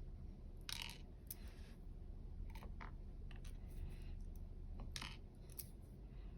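Small metallic clicks and brief scrapes, scattered irregularly, as the pins and springs of a U-Shin Showa NX dimple lock are worked out with small tools during disassembly; the sharpest scrapes come just under a second in and about five seconds in.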